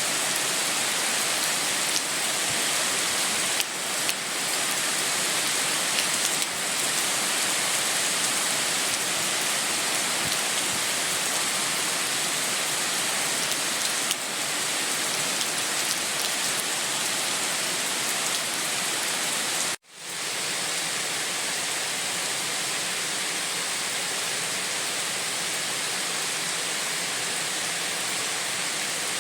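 Steady heavy rain, an even hiss of falling water. About two-thirds of the way through it cuts out abruptly for a moment, then fades back in.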